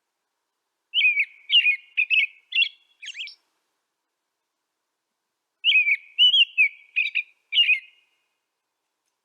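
A songbird singing two short phrases of quick, warbled whistled notes, the first about a second in and the second a few seconds later, with silence between them.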